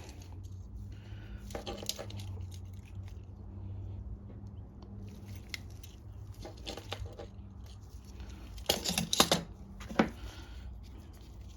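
Small clicks and scrapes of hands handling and poking at the lawn mower's disassembled carburetor parts, with a louder cluster of sharp clatters about nine seconds in and another a second later, over a steady low hum.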